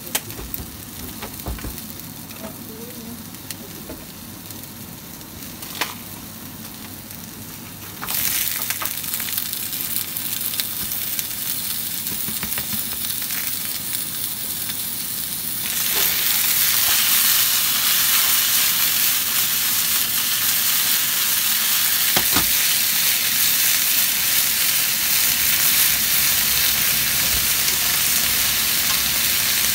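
Sliced green onions sizzling in a frying pan. About a quarter of the way in the sizzle turns suddenly louder as raw offal goes into the pan, and it steps up again about halfway to a loud, steady frying hiss. Near the end chopsticks stir the pan.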